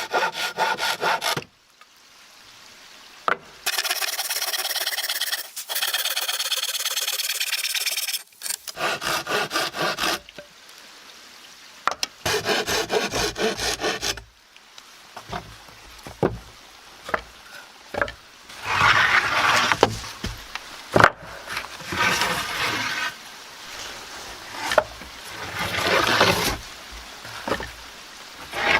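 Wood being sawn by hand: several spells of quick, even saw strokes with short pauses between. Rougher scraping strokes follow near the end, with a few sharp knocks.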